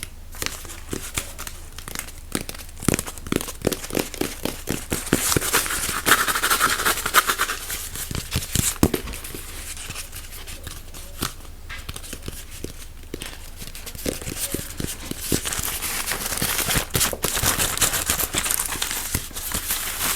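Close-miked crinkling and rustling, as of crinkly material being handled, with many quick taps and clicks throughout. The rustling is strongest about five to eight seconds in and again from about fifteen seconds on.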